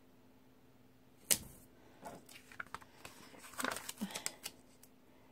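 Planner stickers and paper being handled: one sharp tap about a second in, then a run of small clicks and rustles as the stickers are peeled and pressed onto the page.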